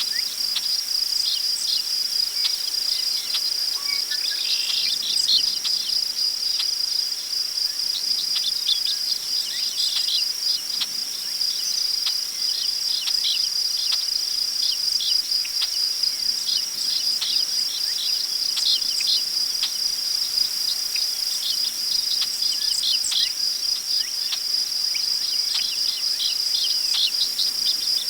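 Crickets trilling steadily in one unbroken high tone, with many short bird chirps scattered over it and a faint rustle of wind through tall prairie grass.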